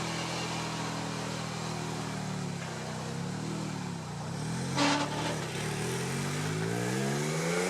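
Sports car engine running at steady revs, then the revs dip and rise a few times before climbing steadily near the end as it accelerates. A short sharp click about five seconds in.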